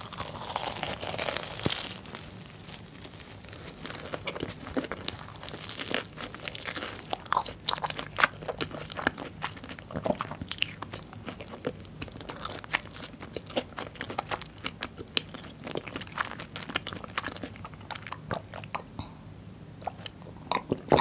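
Close-miked biting and chewing of a crisp batter-fried Korean corn dog: a big crunchy bite at the start, then many small crisp crunches as it is chewed.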